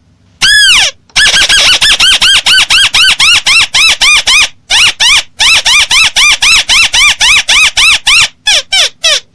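Crake (burung tikusan) lure call: a long, fast series of high, squeaky, arched notes, about five a second, with a brief pause about halfway and a few quicker falling notes near the end.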